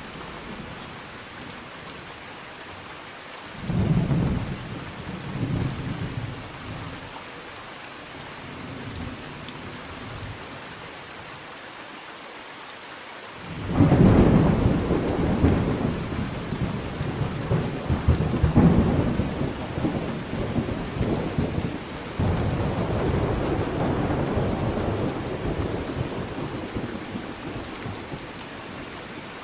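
Steady rain falling with thunder: a short rumble about four seconds in, then a long, loud rolling peal of thunder starting about halfway through and slowly dying away near the end.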